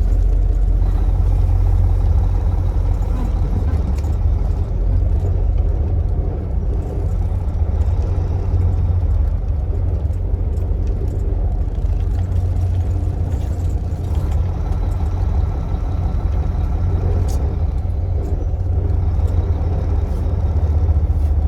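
Semi-truck diesel engine running with a steady low drone, heard from inside the cab.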